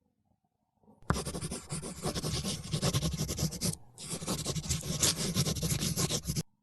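Oil pastel scratching and rubbing across paper in rapid strokes. It starts abruptly about a second in, breaks off briefly near the middle, and stops suddenly just before the end.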